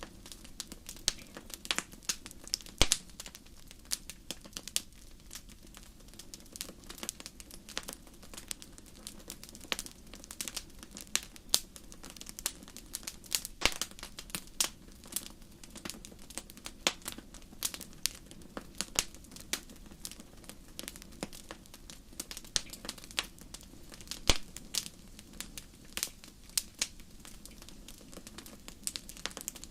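Wood fire crackling in a fireplace: irregular sharp pops and snaps, a few much louder than the rest, over a low steady background.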